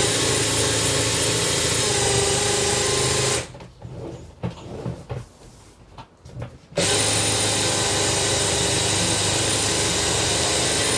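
Electric drain-cleaning machine running, its rotating wire cable spinning in a clogged sink drain pipe to clear the blockage. It runs as a steady motor whine for about three seconds, stops, then starts again from about seven seconds in.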